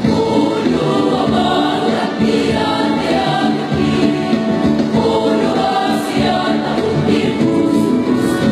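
A choir singing a song in several parts, with sustained chords.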